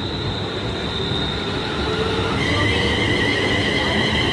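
London Midland Class 350 electric multiple unit pulling away, its running gear giving a steady high-pitched whine over a rumble, growing louder. A second, lower pair of whining tones joins about halfway through.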